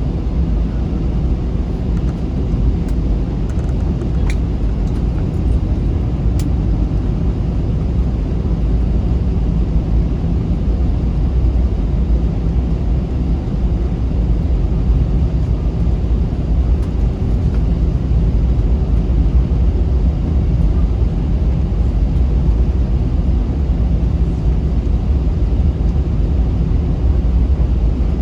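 Cabin noise inside an Airbus A321 on the ground before takeoff: a steady low rumble from the idling jet engines, with a few faint clicks in the first few seconds.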